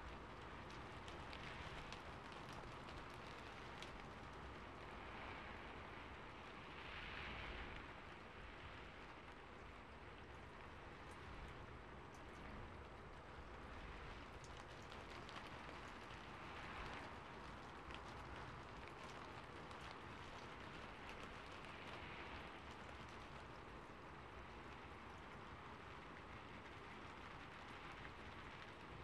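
Soft, steady rain with individual drops ticking, swelling a little in strength a few times.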